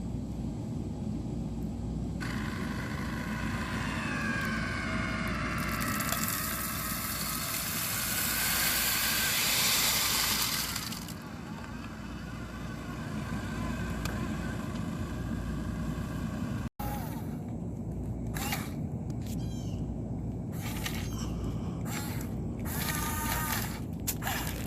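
Small electric motors of a radio-controlled excavator whining as it works, rising in pitch now and then, over a steady low rumble. A louder hiss lasts about five seconds in the middle.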